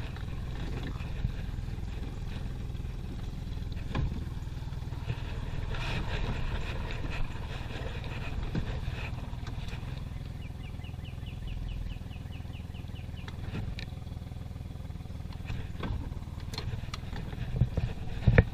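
Boat motor running steadily at a constant speed.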